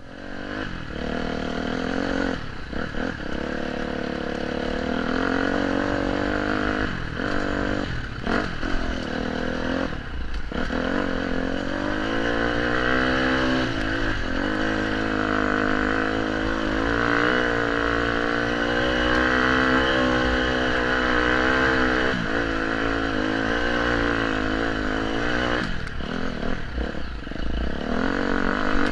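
Off-road motorcycle engine pulling uphill, the throttle briefly closing several times in the first ten seconds, then the engine rising in pitch and holding high revs before easing off near the end.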